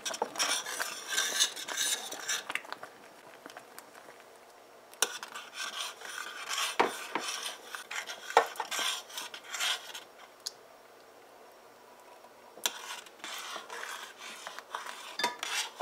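A spoon stirring in a cooking pot, scraping and clinking against its sides and bottom, in three spells with short pauses between.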